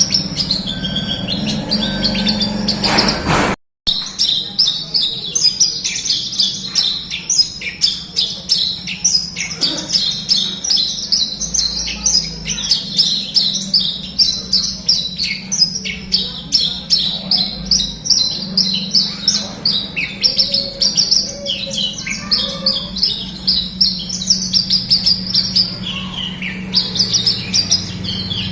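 Javan bush lark (branjangan) in full song, a rapid, unbroken run of high chirps and trills. The song drops out for a split second about three and a half seconds in, and a steady low hum runs underneath.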